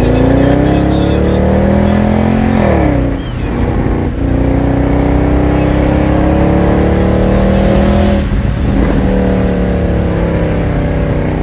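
Mercedes-Benz C63 AMG (W204) 6.2-litre V8 accelerating hard, its pitch rising through the gears, with upshifts about three seconds and eight seconds in.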